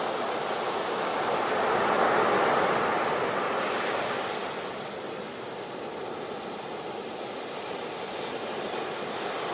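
Ocean surf: a continuous rush of waves that swells about two seconds in, ebbs through the middle and begins to build again near the end.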